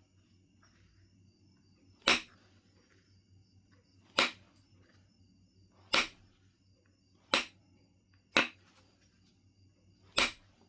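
Knife River Flint being knapped: six sharp clicking strikes, one every second or two, as flakes are struck off the stone.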